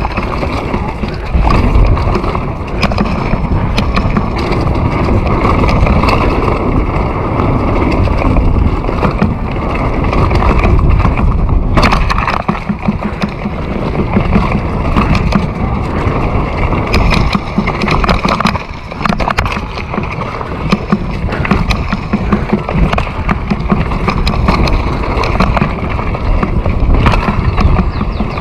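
Continuous noise of riding over rough, wet ground, with wind on the microphone and frequent knocks and rattles.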